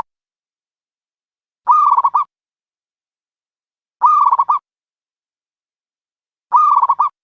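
Dove cooing: three short rolling calls of quick repeated notes, each about half a second long and about two and a half seconds apart, with dead silence between them.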